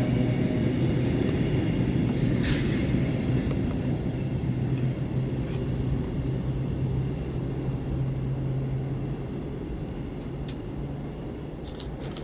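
A train passing through the station with a steady rumble and a low hum, gradually fading as it moves away, with a few brief clicks along the way.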